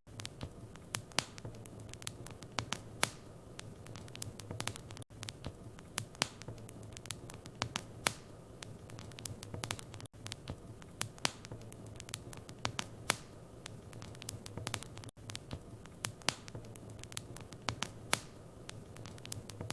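Wood fire crackling in a fireplace: irregular sharp pops and snaps, several a second, over a soft steady hiss and a low hum.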